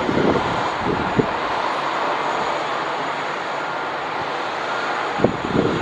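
Airbus A320 jet engines running with a steady, even noise and a faint whine.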